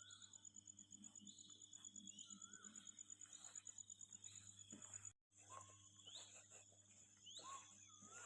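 Faint countryside ambience: insects trilling steadily in a fast pulsing buzz, with birds giving short rising chirps now and then. The sound cuts out completely for a moment about five seconds in.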